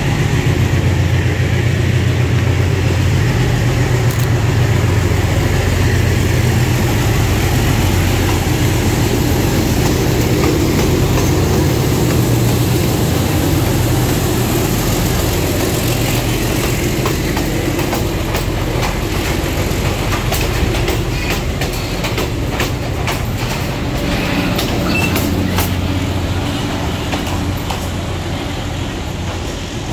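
Diesel-hauled passenger train passing close by: a low locomotive engine hum dominates the first half, then from about halfway the wheels click and clack over the rail joints as the carriages roll past. The sound eases slightly near the end.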